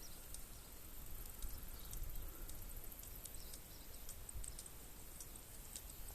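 Mountain bike riding heard through a helmet-camera microphone: an uneven low wind rumble with faint, scattered clicks and ticks.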